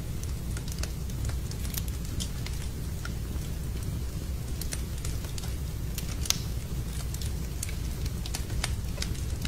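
Wood fire burning in a fireplace, crackling with irregular small pops over a steady low rumble, with one sharper pop about six seconds in.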